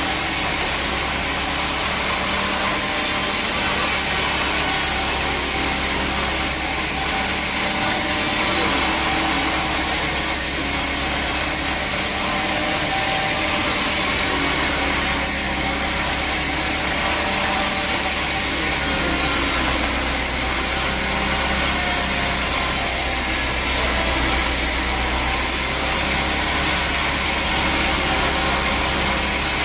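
Sawmill saw cutting steadily through a teak log, with the saw's motor running underneath; the level stays even with no breaks.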